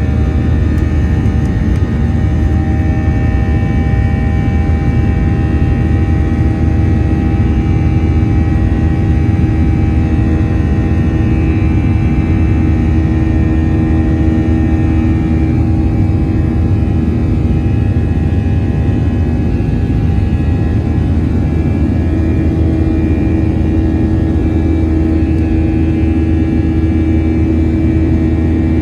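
Boeing 737 jet engines running steadily: a loud, even rumble with several steady whining tones above it.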